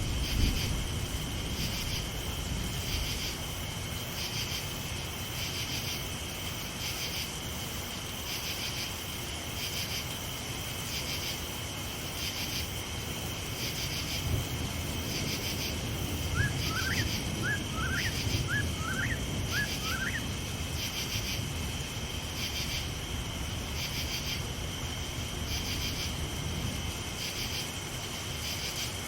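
Crickets chirping in a steady rhythm, a little more than one pulse a second, over the even hiss and low rumble of rain. A bit past the middle a bird gives a short run of quick rising calls, about seven in a few seconds.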